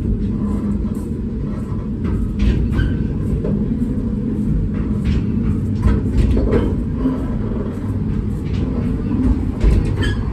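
The diesel-powered reproduction Lartigue monorail train running: a steady low rumble with a faint engine hum, broken by scattered clacks and knocks.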